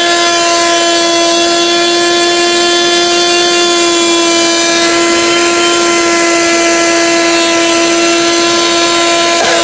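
Vacuum cleaner running steadily: a loud, unchanging motor whine over a hiss of air.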